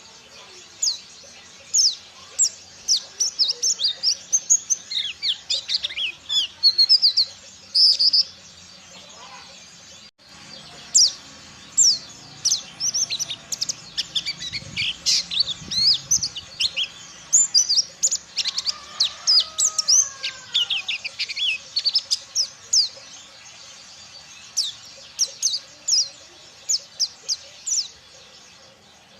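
Pleci (white-eye) singing a fast run of short, sharp, high chirps strung into twittering phrases, with a brief break about ten seconds in.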